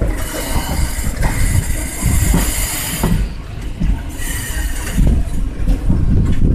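Jan Shatabdi passenger train running on the track: a steady rumble of wheels on rails. High-pitched wheel squeal comes in about a second in, lasts a couple of seconds, and returns briefly near four seconds.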